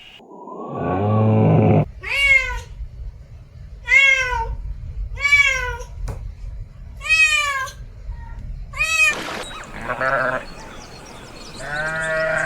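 A cat meowing five times, each meow short and falling in pitch. Before the meows there is a low animal call, and near the end a lower bleating call.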